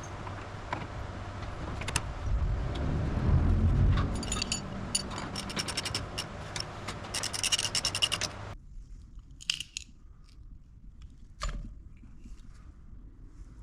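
Metal tools and car parts clinking, jingling and scraping as they are handled, with a fast run of light metallic clinks in the middle. The background drops away abruptly about two thirds of the way through, leaving only a few separate clicks.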